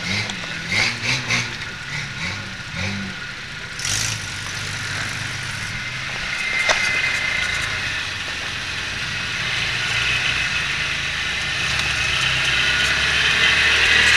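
Off-road pickup truck engine running steadily, growing louder over the last several seconds, with one sharp click about seven seconds in.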